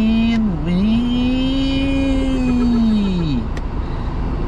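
Mazda Miata's four-cylinder engine revving hard under acceleration, with a brief dip in pitch about half a second in before it climbs and holds high again, then falls away as the throttle closes about three and a half seconds in. A steady low rumble of wind and road noise runs underneath.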